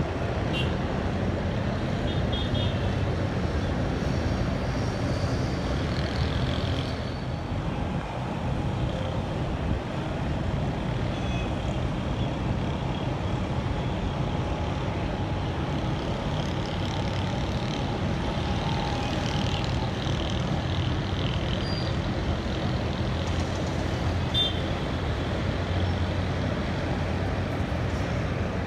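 Steady road traffic noise: a continuous rumble of vehicles passing, with a few faint short higher sounds scattered through it.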